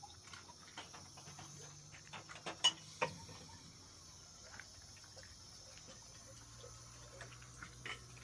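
Scattered light clicks and knocks, with two sharper knocks in quick succession about two and a half to three seconds in, over a faint steady high hiss.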